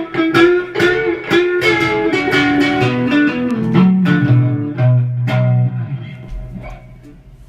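Guitar playing a blues line of quickly picked notes that step downward in pitch, ending on a low note that rings out and fades away.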